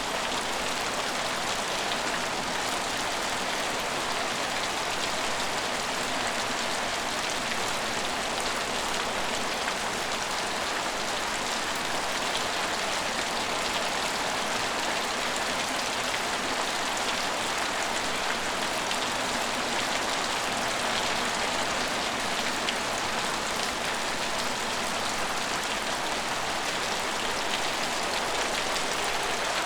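Steady rain falling on a station's roofs and platform, an even hiss dense with fine drop ticks.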